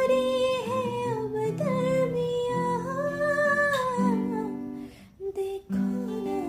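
A voice hums a wordless melody in long held notes over acoustic guitar chords, closing out a romantic Hindi ballad. The music dips briefly about five seconds in.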